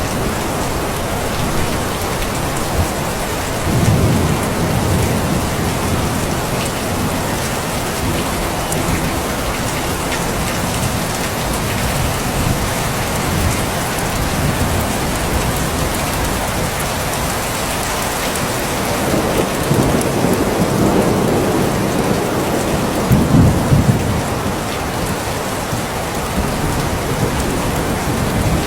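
Steady heavy rainfall with low rumbles of thunder, one about four seconds in and two more in the second half.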